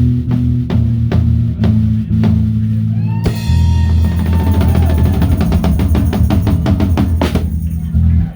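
Live rock band playing: a drum kit with its snare damped by a towel, plus bass guitar and electric guitar. Drum hits fall about twice a second, then about three seconds in the hits come much faster over a held bass note, building to the song's ending, which stops abruptly at the very end.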